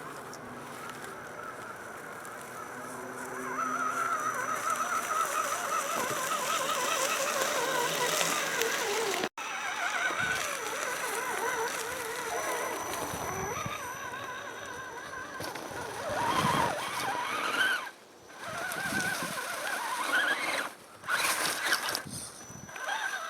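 Axial SCX10 scale RC crawler's 35-turn brushed electric motor and gear drivetrain whining, the pitch wavering up and down as the throttle is worked over the trail. The sound breaks off sharply about nine seconds in and comes in louder, choppier bursts near the end.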